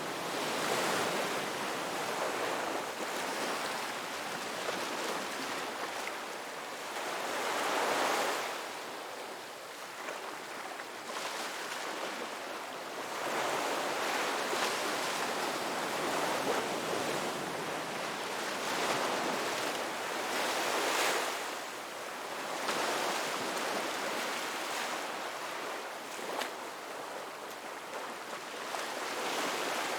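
Ocean waves breaking and washing up a beach, a steady surf hiss that swells and falls every few seconds as each wave comes in.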